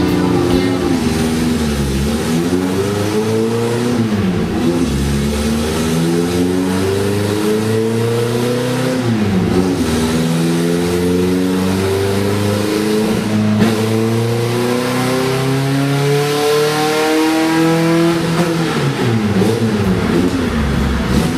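VW Beetle's air-cooled flat-four engine revving hard on a chassis dyno in a full-throttle pull: the pitch climbs steadily, drops back at two gear changes, climbs again through the last gear, then falls away near the end as the run finishes.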